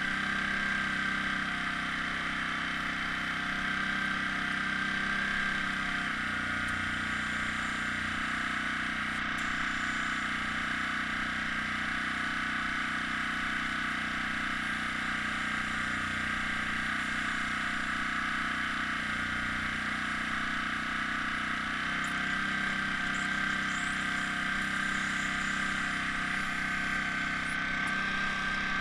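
Small airbrush air compressor running steadily with a continuous hum and hiss. Its low note shifts about six seconds in and back again near the end.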